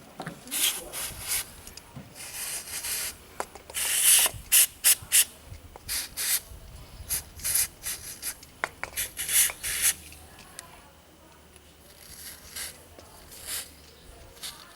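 Short scraping and rubbing strokes on the removed starter motor, dense for about ten seconds and then only a few.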